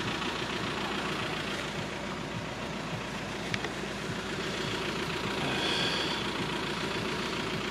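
Steady hum of car engines idling at the lowered level-crossing barriers, with a faint click about three and a half seconds in.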